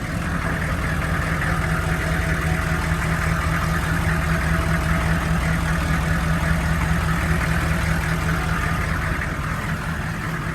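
6.5-liter diesel V8 of a 2002 Chevy 3500 idling steadily with an even, rapid clatter. The engine sounds good.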